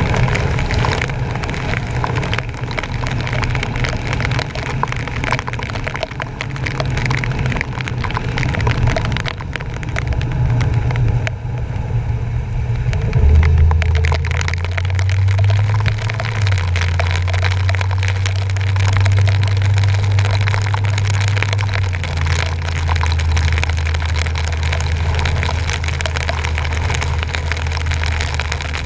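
Rain and water spray crackling against a bumper-mounted action camera's waterproof housing as a truck drives through floodwater, over a steady low drone from the truck that shifts in pitch a few times in the second half.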